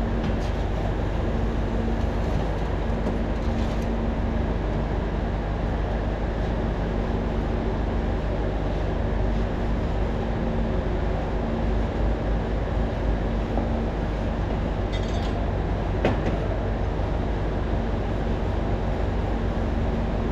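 Steady low drone of machinery running, with a faint wavering hum over it. A short hiss comes about 15 seconds in, with a click just after.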